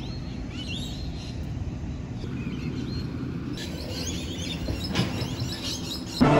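Several birds chirping in short rising calls over a steady low background noise, with a single sharp tap about five seconds in. Music comes in right at the end.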